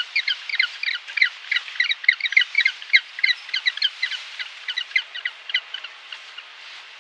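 A rapid series of short, high chirping animal calls, about five a second, thinning out and stopping near the end.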